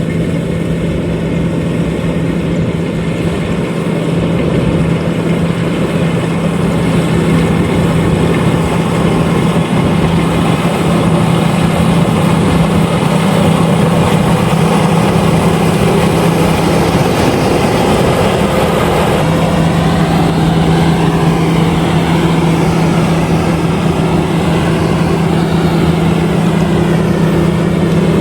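LOVOL RG130EVO rice combine harvester running steadily, a constant loud machine drone with a strong steady hum that briefly wavers about two-thirds of the way through.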